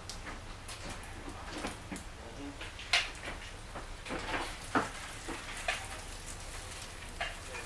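Irregular clicks, knocks and light rattling of hardware and small boxes being handled while searching for washers, with two sharper knocks about three and five seconds in.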